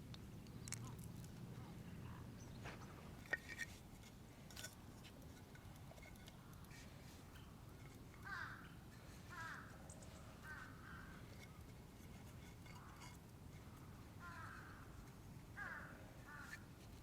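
Crows cawing faintly: short falling calls in a run about eight seconds in and again near the end, over a faint low hum, with a few sharp clicks early on.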